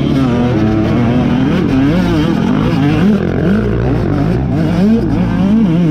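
Off-road racing motorcycle engines revving up and down in quick swings, about once a second, as the throttle is worked over rough ground. At times more than one engine is heard.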